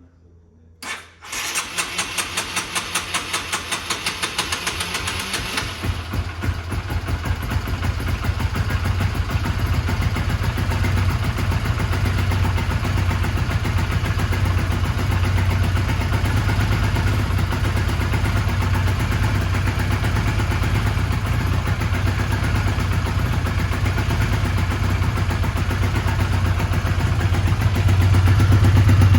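A Honda CBR125 motorcycle's single-cylinder engine started: it cranks with a pulsing sound for a few seconds from about a second in, then settles into a steady idle that grows louder near the end.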